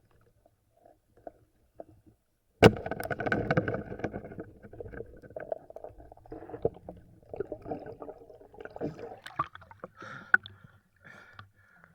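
River water splashing and sloshing as it is disturbed, starting suddenly about two and a half seconds in and going on irregularly. Scattered clicks follow near the end.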